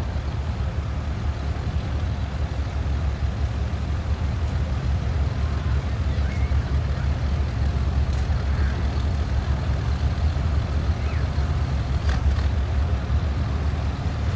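Farm tractor engine running steadily under load while pulling a weight-transfer sled, a continuous low rumble.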